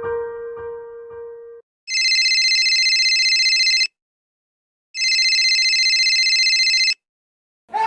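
Electronic telephone ringer trilling: two rings of about two seconds each, a second apart.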